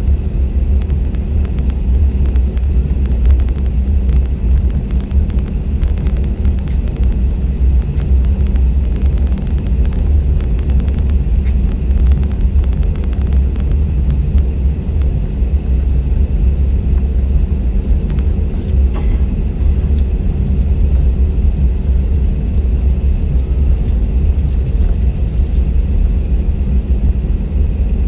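Jet airliner cabin noise: the engines running with a steady hum and a strong, even low rumble.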